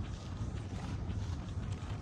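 Footsteps of someone walking, over a steady low rumble.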